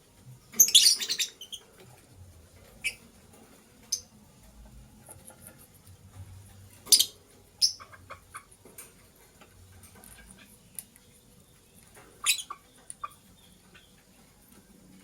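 Lovebirds chirping: a quick cluster of shrill calls about a second in, then scattered single sharp chirps every few seconds.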